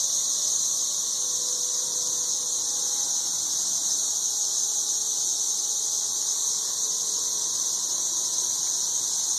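Dense chorus of 13-year periodical cicadas calling from the trees: a steady, unbroken, high-pitched drone, ridiculously loud.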